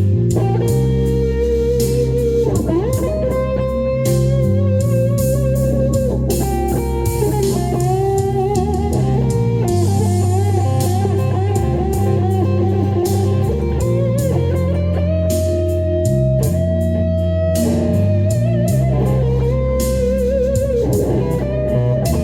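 Lead guitar playing a melody along with a backing track: held notes with vibrato and slides between pitches, over a steady bass line and drums.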